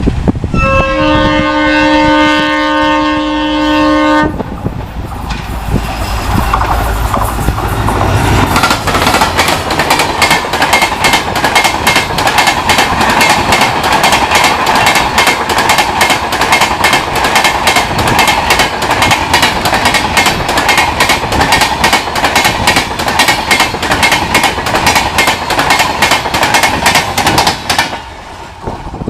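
A diesel-hauled express train passes at speed. The locomotive sounds a multi-tone horn for about three seconds while its engine rumbles. Then the coaches' wheels clatter rapidly and evenly over the crossover and expansion joints for about twenty seconds, and the sound stops abruptly near the end.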